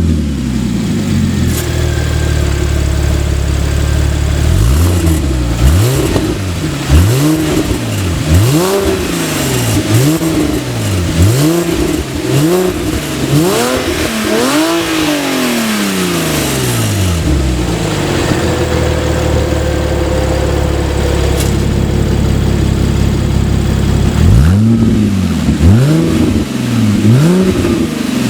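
Porsche 987 Mk2 Boxster flat-six breathing through a Cargraphic sport rear silencer with exhaust flaps, idling steadily. It is then blipped about nine times in quick succession, each rev rising and falling. It settles back to idle and is blipped again a few times near the end.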